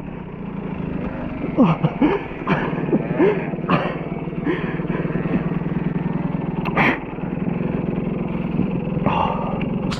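KTM EXC 125 two-stroke enduro engine idling steadily. Several short squealing sounds come in the first half, and there is a sharp knock near the middle.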